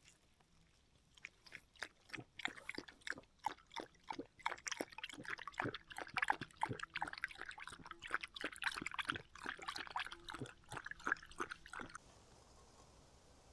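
Close-up crunchy chewing: a fast, uneven run of crisp bites and crunches that stops abruptly near the end.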